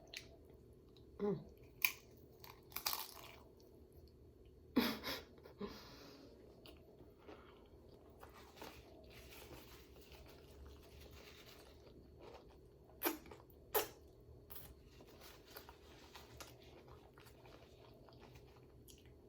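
Close-miked chewing and mouth sounds of a person eating a sofritas rice-and-bean bowl: scattered wet clicks and smacks, the loudest about five seconds in and twice around thirteen seconds in, between quieter stretches of chewing.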